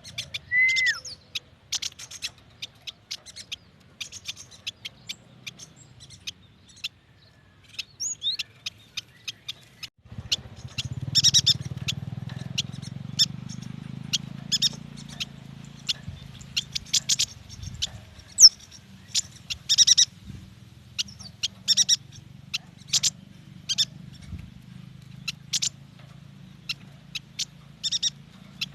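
Yuhina calling: rapid bunches of short, sharp high chips and brief twittering notes, with a couple of short whistled glides. A low steady hum comes in about ten seconds in.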